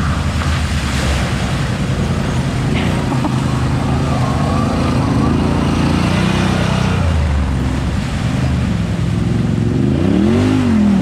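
Side-by-side UTV engine running on a trail, its pitch shifting up and down with the throttle, with a brief rev up and back down near the end.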